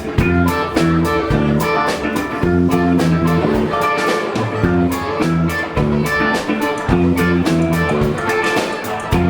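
A band playing a blues-style number: guitar over a moving bass line, with a drum kit keeping a steady beat.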